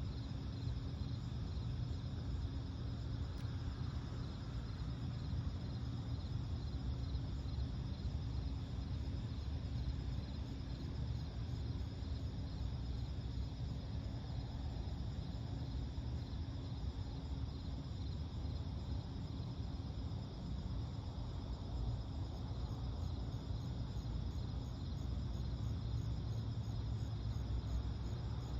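Night-time insect chorus: crickets trilling steadily in several high, finely pulsing bands, over a low steady rumble.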